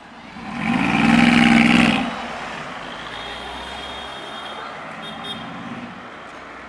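Mercedes-AMG G63 with a Brabus exhaust, its twin-turbo V8 revving loudly for about a second and a half as it pulls away, then steady road traffic noise.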